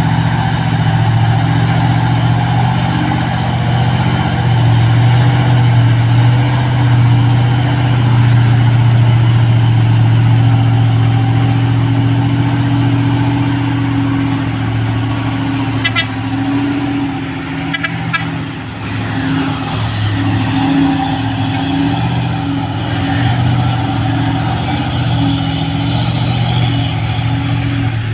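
Heavy diesel truck engine running loud and steady at low revs, with a brief clatter of clicks about two-thirds of the way through.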